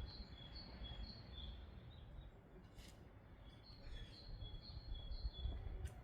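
A small songbird singing a repeated two-note phrase, high and low notes alternating about twice a second, in two short runs over a low rumble, with a couple of faint clicks.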